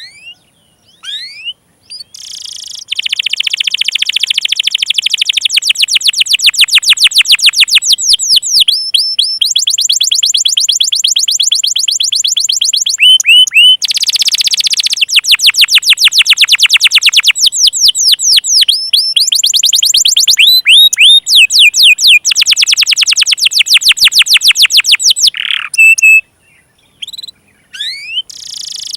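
Domestic canary singing a loud, long song of rapid trills and rolls, fast runs of repeated notes that switch to a new phrase every second or two. It opens with a few scattered chirps and breaks off briefly near the end.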